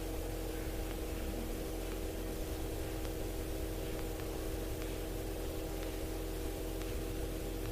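Helicopter in flight heard from the cockpit: a steady hum of several level tones over a low rumble and hiss.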